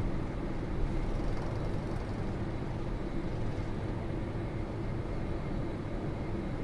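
Passenger airliner's steady engine and airflow noise, with a low steady hum.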